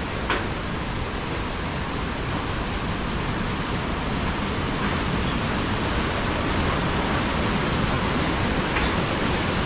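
Steady rushing roar of the Iguazu waterfalls, a constant wash of falling water with no letup.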